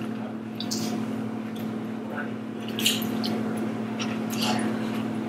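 People chewing fast food close to the microphone: wet chewing and mouth smacks, with a few short sharp clicks, over a steady low hum.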